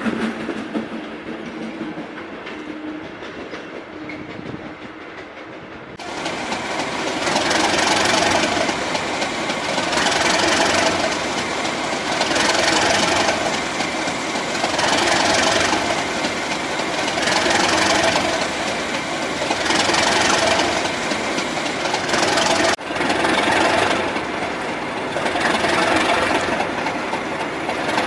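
Colas Rail Class 37 diesel locomotives, with English Electric V12 engines, working a test train. The sound is quieter for the first few seconds, then changes abruptly about six seconds in to a loud train sound that swells and fades roughly every two and a half seconds.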